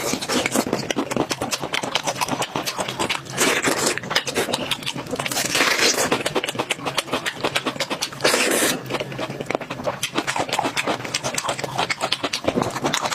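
Close-miked eating sounds: rapid wet chewing clicks and lip smacks, with a few longer sucking sounds about three, five and a half, and eight seconds in.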